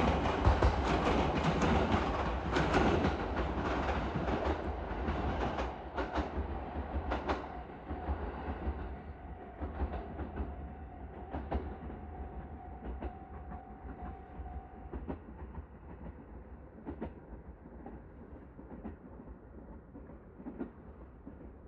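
JR East 209 series 2100 subseries electric train pulling away, its wheels clicking over the rail joints as it goes, the sound fading steadily into the distance.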